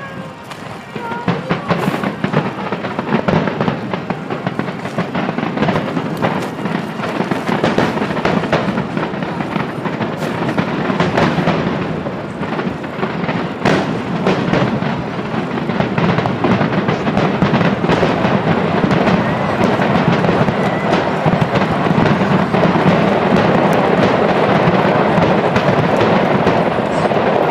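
Dense barrage of aerial fireworks, with many booms and crackles overlapping almost without pause. It thickens into a near-continuous mass over the second half.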